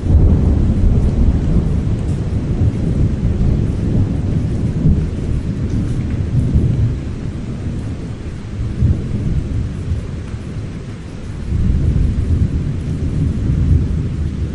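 Thunder rumbling low and long over steady rain. The rumble starts loud and swells and fades several times, with another strong swell near the end.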